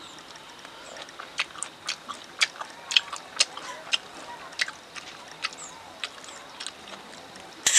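Close-miked chewing and mouth smacks from eating rice and meat by hand: an irregular run of short clicks, several a second, with a louder smack near the end.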